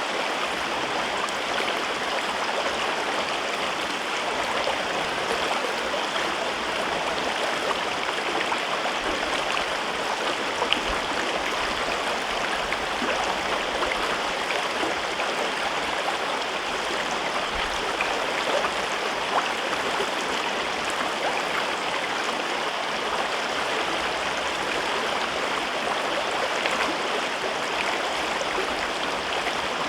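A mountain river flowing steadily through a rocky gorge, a continuous rushing with small splashes and gurgles scattered through it.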